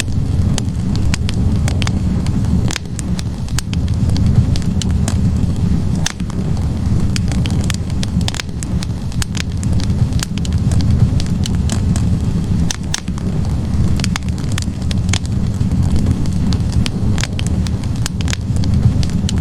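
Wood fire burning in a fireplace: a steady low rumble of flames, with frequent sharp crackles and pops from the burning logs scattered irregularly throughout.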